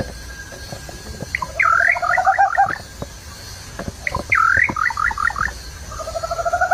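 A bird singing: phrases of quick down-sweeping whistled notes over a lower rapid trill, three phrases in all, the last starting near the end, with scattered faint clicks between them.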